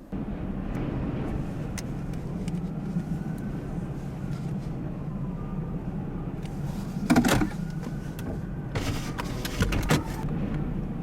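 Steady low rumble of strong wind, with a brief louder pitched sound about seven seconds in and a few sharp knocks around nine to ten seconds.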